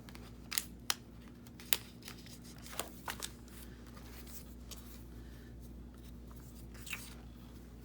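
Paper craft pieces being handled on a work table: a scatter of light, sharp clicks and taps with soft paper rustling, most of them in the first half and one more near the end.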